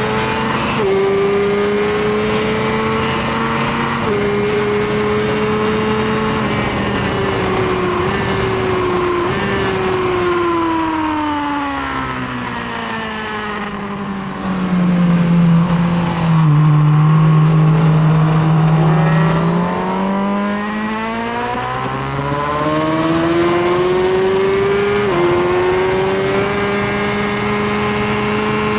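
Suzuki GSX-R1000R inline-four engine under track riding, with wind rush. Its note is high at first, then falls in steps through braking and downshifts to a low, louder note in a slow corner midway. It then climbs again under acceleration, with an upshift near the end, and runs high once more.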